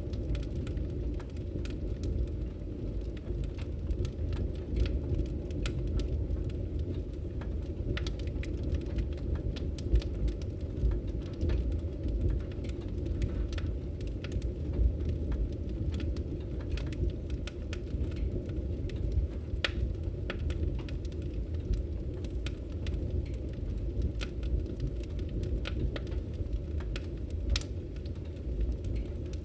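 Wood fire burning in a fireplace, with a steady low rumble of flames and many small irregular crackles and snaps.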